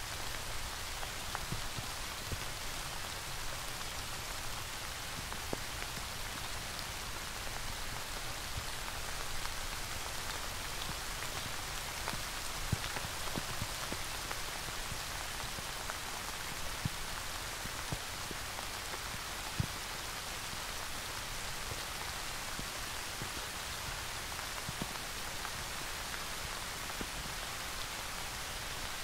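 Steady rain falling, an even hiss of drops with individual drops ticking sharply here and there, a few louder ones near the middle.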